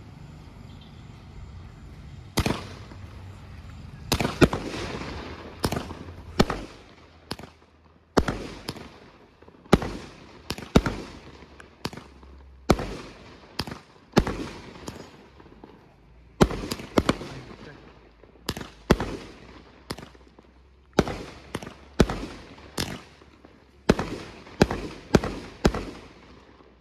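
A 16-shot consumer fireworks cake firing: sharp bangs one after another, often in close pairs, starting about two seconds in and running until shortly before the end.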